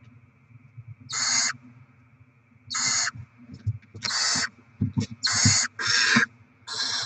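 Barn owl owlets' begging hisses: harsh rasping hisses about half a second long, repeated about six times and coming closer together in the second half, the food-begging call of nestlings waiting to be fed.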